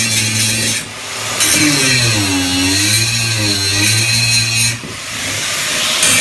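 Angle grinder grinding down weld seams on a steel bench, a steady motor hum under a harsh hissing grind. The grind eases off briefly twice, about a second in and near the end, and the motor pitch sags and recovers as the disc is pressed against the metal.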